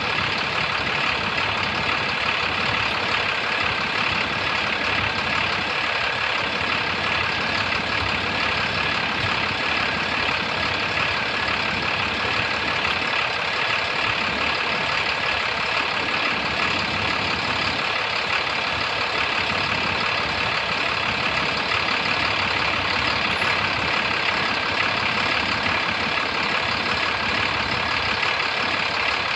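2009 Cummins ISB6.7 inline-six turbodiesel running steadily at an even speed.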